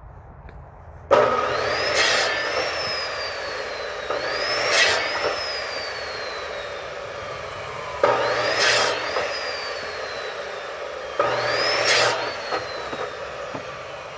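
Electric firewood saw cutting through logs, four cuts in a row about every three to four seconds. The first starts suddenly about a second in, and each cut carries a whine that rises and then slowly falls in pitch.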